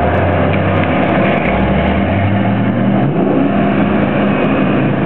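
A car engine running at low revs close by, its pitch rising once between about one and a half and three seconds in, under a steady rushing noise.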